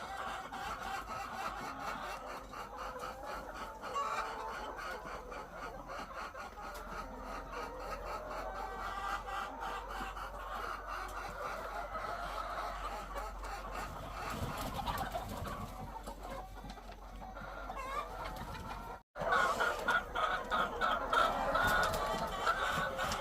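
A large flock of hens clucking continuously, many calls overlapping. It breaks off for an instant about nineteen seconds in and comes back louder.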